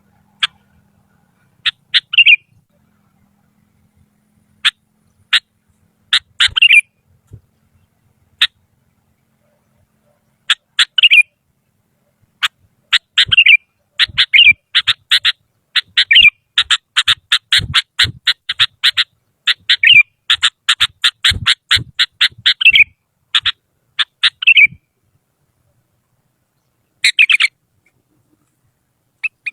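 Sooty-headed bulbul (kutilang) calling in short, sharp notes. They come singly with gaps at first, then in a fast run of rapid notes through the middle, then a pause and a brief burst near the end.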